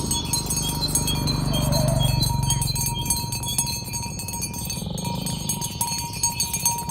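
Cow mooing: one long, low moo from about half a second in to about three seconds, then a fainter one near five seconds.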